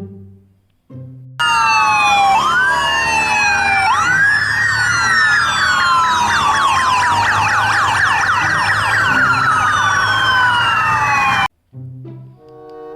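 Several sirens wailing at once, their rising and falling pitches overlapping in a dense tangle. They start abruptly about a second and a half in and cut off suddenly shortly before the end.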